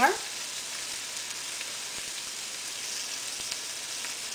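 Chopped onions, pepper and garlic sizzling steadily in hot oil in an aluminium pot, a light even hiss with faint crackles.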